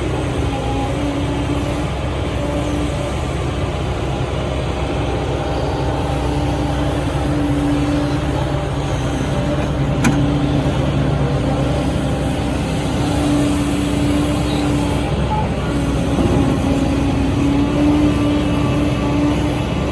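SANY SY135C excavator's diesel engine running steadily from the operator's seat, with a wavering whine that rises and fades as the hydraulics work the digging cycle. There is a single sharp click about ten seconds in.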